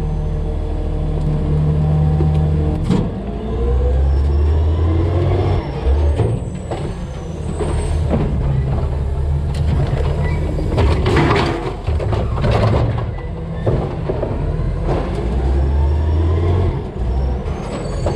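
Peterbilt 320 CNG DaDee Scorpion garbage truck working: the engine idles steadily, then revs up about three seconds in and again near the end as the hydraulics work. A run of knocks and crashes comes in the middle, strongest a little past halfway, as garbage and carts bang into the hopper.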